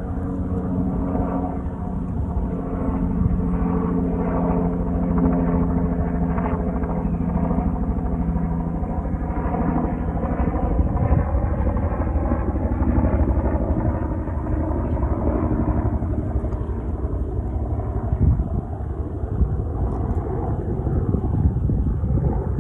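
A steady engine drone, its pitch falling slowly through the second half.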